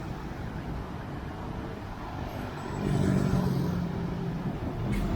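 Street traffic going by, with a vehicle engine's low hum growing louder about three seconds in as it passes close.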